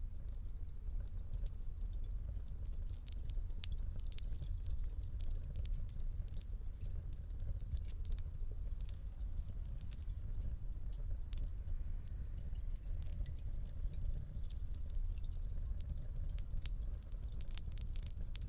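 Wood fire crackling in a fireplace, with a steady stream of small sharp pops and snaps over a low, even rumble of burning.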